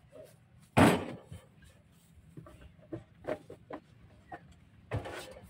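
Handling knocks while working on a saw machine: one loud knock about a second in, scattered light clicks and taps, and another heavy knock near the end. The saw itself is not running.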